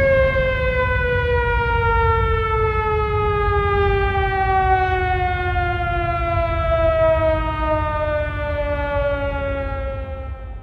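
Air-raid siren winding down: one long wailing tone that slides slowly lower in pitch over a low rumble, then fades away near the end.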